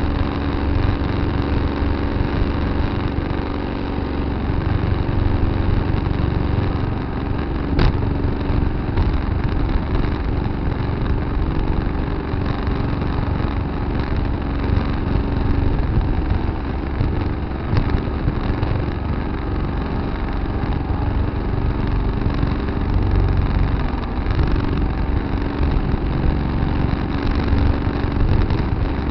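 Tractor engine running steadily with a low rumble. A single sharp click or knock sounds about eight seconds in.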